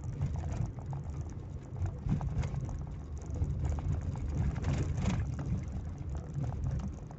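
Car cabin noise while driving: a steady low road and engine rumble with small rattles and ticks.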